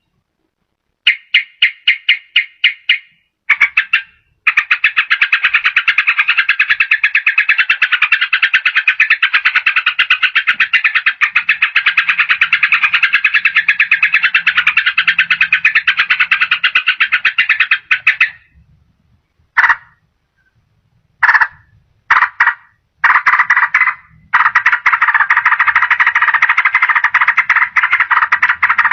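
Yellow-vented bulbul (trucukan) giving a fast rattling chatter of rapidly repeated notes, the rapid 'ropel' song used as a lure call. A short burst comes about a second in, then a long unbroken run, a few brief bursts, and another long run near the end.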